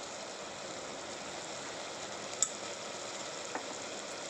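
Onion-tomato masala sizzling steadily in ghee in a pressure cooker, with a sharp click about two and a half seconds in and a fainter one a second later.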